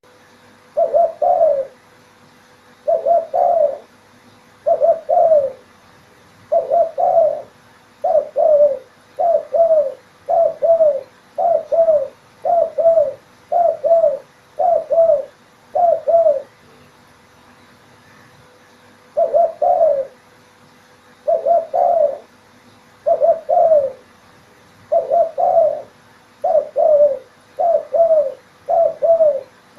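Spotted dove cooing: short phrases of two or three low coo notes repeated about every one and a half to two seconds, with a pause of about three seconds partway through.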